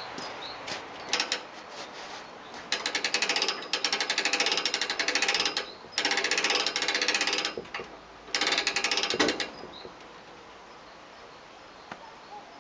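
Ratchet mechanism clicking rapidly in four runs of one to two seconds each, with short pauses between them.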